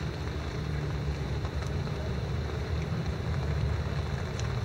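Steady rain with wind rumbling on the microphone, and a couple of faint ticks.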